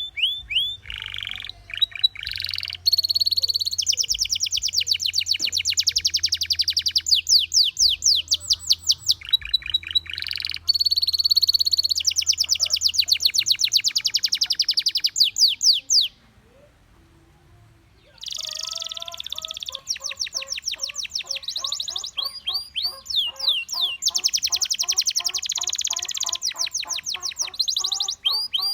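Gloster canary singing: long trills of fast repeated high notes, the rolls changing speed and pitch from phrase to phrase. The song breaks off for about two seconds a little past the middle, then resumes.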